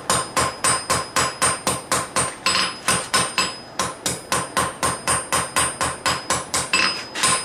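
Hammer blows on hot steel at the anvil, a steady run of about four strikes a second, each with a bright metallic ring: hand-forging and setting a forge weld in a san mai billet of expanded steel over high-carbon steel.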